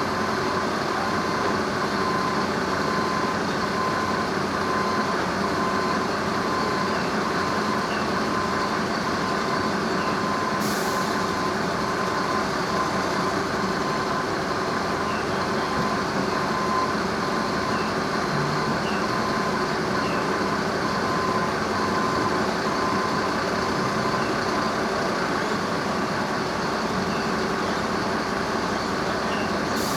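An engine idling steadily with a constant hum, and two brief high hisses, one about a third of the way in and one near the end.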